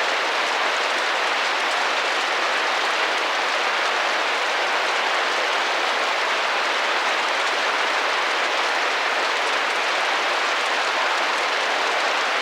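Steady rain drumming gently against a glass window, an even hiss of many small drops with no single hits standing out.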